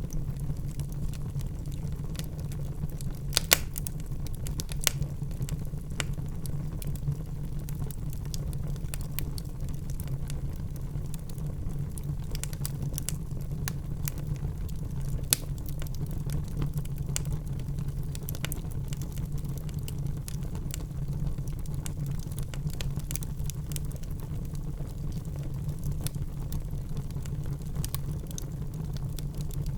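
Wood fire burning in a fireplace, with a steady low rumble of flames and scattered sharp crackles and pops of the logs; the loudest pops come about three and a half seconds, five seconds and fifteen seconds in.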